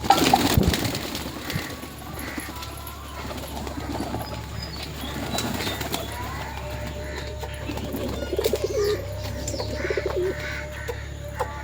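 Domestic pigeons cooing in low pulsed calls, with a loud rustling burst at the very start.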